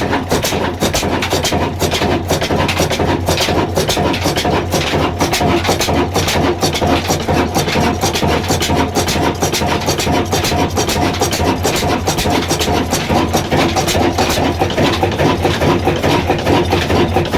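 Old Ruston diesel engine running steadily, with an even run of exhaust beats over a constant low drone.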